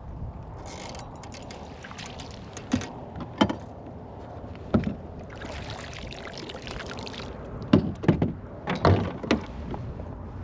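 Fishing kayak on choppy, windy water: a steady rush of wind and water, with about seven sharp knocks and clunks against the hull, the loudest in a cluster near the end.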